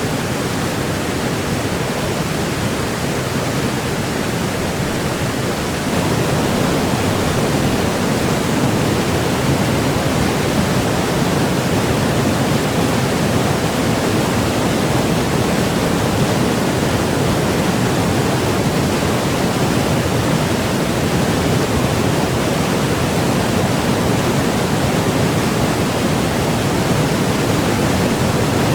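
Steady, dense rush of fast white water on the Kolvitsa river, a rapid-strewn northern river with a waterfall, with no other sound above it. The water gets a little louder about six seconds in.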